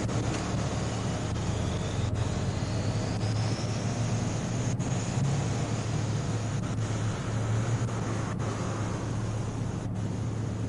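Steady low hum and rumble of idling vehicles and road traffic, with a faint high tone rising slowly over a few seconds near the start.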